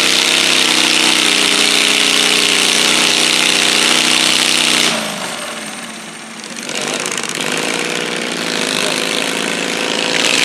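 Modified pulling garden tractor engine running hard at high revs under load, dropping off sharply about five seconds in, then running again more quietly and picking up toward the end.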